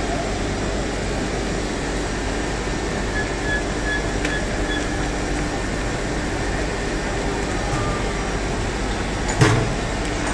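Steady industrial machinery noise with a low hum, and one sharp knock near the end.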